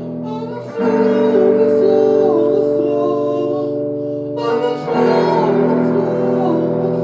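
Guitar music: held chords, freshly struck about a second in and again about five seconds in, with a wavering wordless melody over them.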